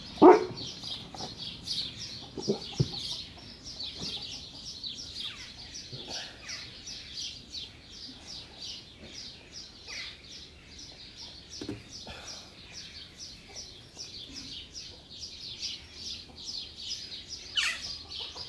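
Birds chirping in a quick, steady run of short high notes, a few a second, with now and then a louder call that falls in pitch, the loudest right at the start. A couple of sharp knocks come about two and a half seconds in.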